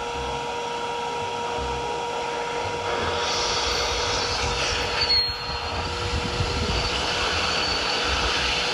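Lego one-cylinder vacuum engine running, driven by the suction of a vacuum cleaner: a steady motor whine with an uneven low pulsing from the engine, and a rushing air hiss that grows louder about three seconds in.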